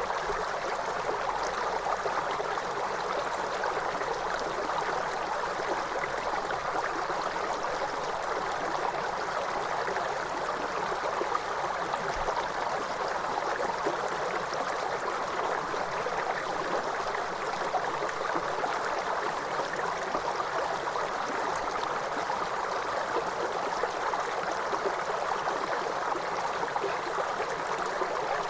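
Waterfall, water falling and running in an even, steady rush that stays strongest in the middle range.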